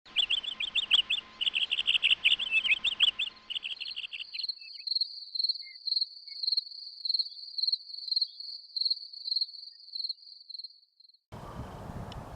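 Rapid, high-pitched chirping trills: a lower series of fast pulses for about four seconds, then a steadier, higher pulsing trill. Near the end it cuts off suddenly to wind-like outdoor noise.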